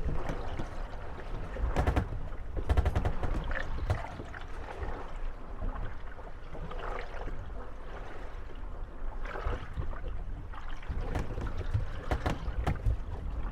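Moored wooden gondolas rocking on the waves, knocking and creaking against one another, with water lapping and gurgling at the hulls. Clusters of sharp knocks come about two seconds in and again near the end.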